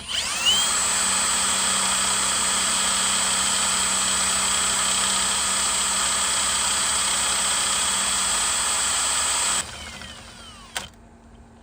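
Power drill spinning an alternator to test whether it charges: the drill winds up quickly, runs at a steady high whine for about nine and a half seconds, then cuts off and winds down, followed by a single click.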